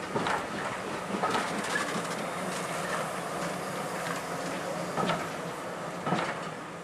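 A steam-hauled train running on the line: a steady rumble from the carriages, with about five sharp knocks at uneven spacing as the wheels pass over rail joints.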